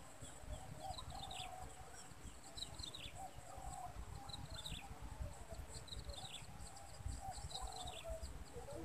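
Faint birds calling over and over, short high chirps sliding downward about once a second with lower brief notes between them, over a low rumble of wind on the microphone.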